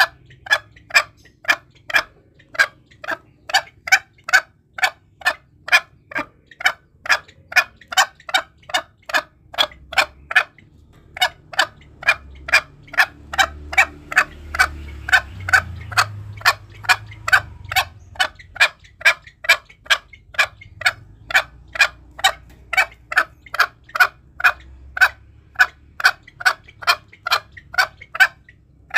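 Green junglefowl calling: short, sharp notes repeated steadily about twice a second, used as a lure call for hunting.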